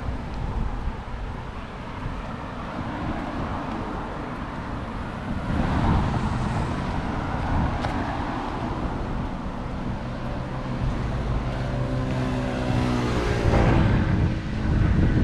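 Wind buffeting the microphone over street traffic. Late on a motor vehicle passes close by, its engine hum dropping in pitch as it goes past.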